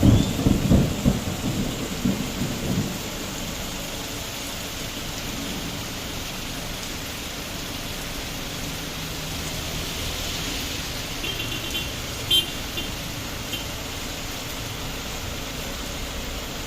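Heavy rain falling steadily, with a sudden crack of thunder right at the start that rumbles and fades over about three seconds. A short sharp click about twelve seconds in.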